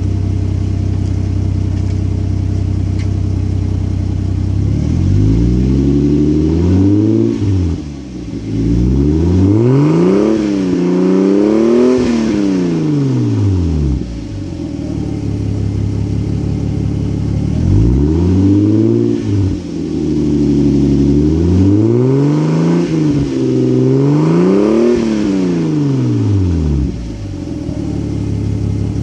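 Lexus GS300's 2JZ inline-six idling through a Tanabe Hyper Medallion exhaust set to TTC mode, with a deep exhaust note. It is free-revved in two rounds of several blips, up to about 4800 rpm, dropping back to idle between them.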